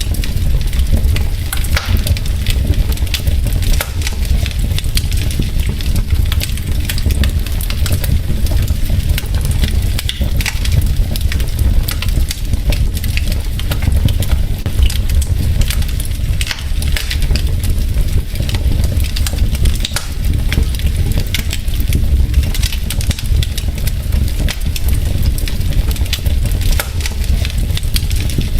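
Wood fire in a fireplace crackling and popping continuously with many sharp small pops over a low, steady rumble of burning.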